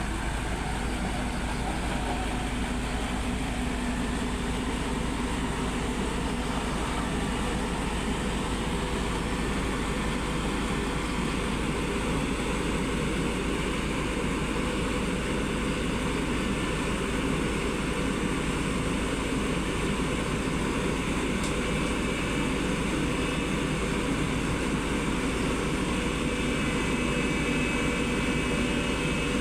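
Heavy diesel engine noise running steadily while a road roller is loaded slowly onto a self-loading truck.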